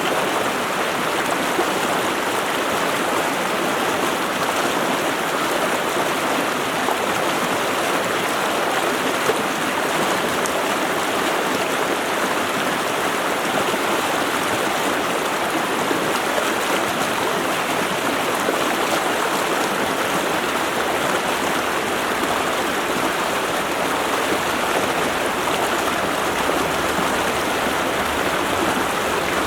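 A stream running steadily over rocks, its rushing and splashing even and unbroken.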